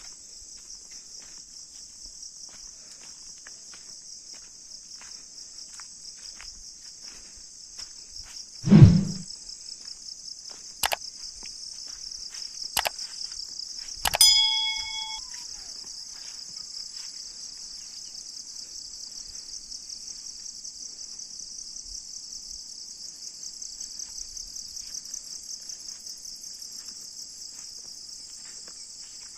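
Steady, shrill chorus of insects with a rapid pulse. A loud low thump comes about nine seconds in, then a few sharp clicks, the last with a brief ringing tone.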